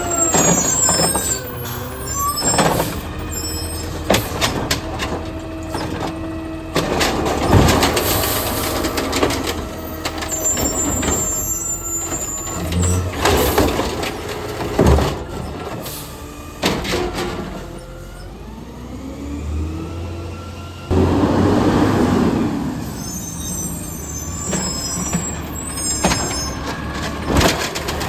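Garbage truck working at the curb: diesel engine running with changing pitch, repeated sharp knocks and clanks, and a sudden loud hiss of air brakes about three-quarters of the way through.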